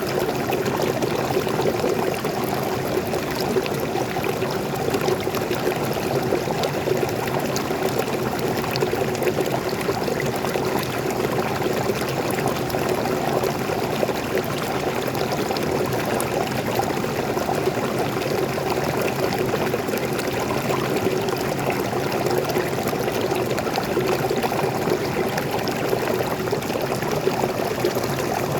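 Forest waterfall pouring steadily: an even, unbroken rush of falling and splashing fresh water.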